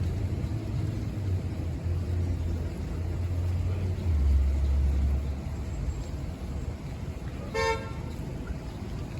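A single short car-horn toot about three-quarters of the way through, over a low rumble of street traffic that swells a little past the middle.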